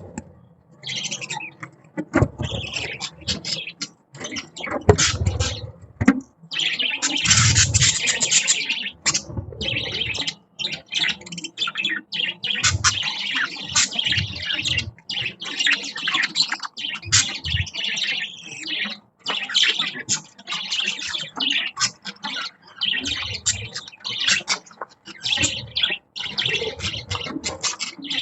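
A group of budgerigars chirping and chattering nonstop in quick, overlapping chirps.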